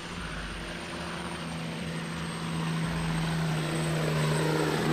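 Heavy log truck's diesel engine working under load, holding a steady pitch and growing gradually louder.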